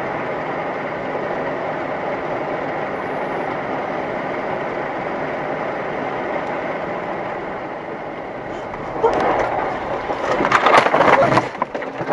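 Steady driving noise heard from inside a car, then about nine seconds in a loud burst of crunching and cracking impacts lasting about two and a half seconds: a car crash.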